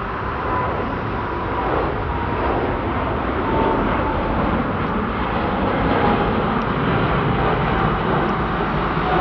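Jet airliner departing at takeoff power: loud, steady jet engine noise with a faint whine that slowly falls in pitch as the aircraft passes.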